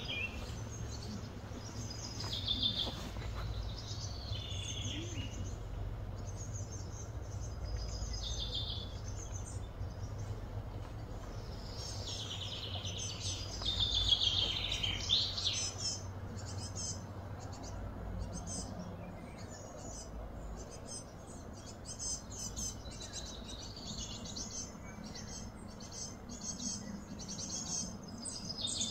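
Birds chirping and calling again and again, with a louder run of sweeping calls about halfway through, over a steady low hum.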